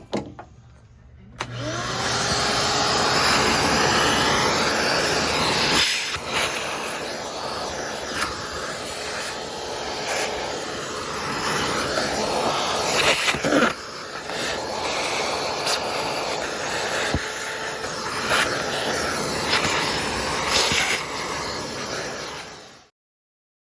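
Shop vacuum switched on about a second in, its motor rising to speed, then running loudly as it sucks dirt and debris out of the floorboard, the sound shifting as the nozzle moves; it cuts off shortly before the end.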